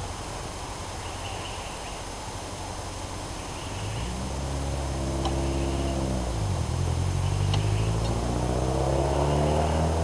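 An engine comes in about four seconds in, over a low hum: its pitch dips briefly, then rises steadily, as with a vehicle engine revving or pulling away.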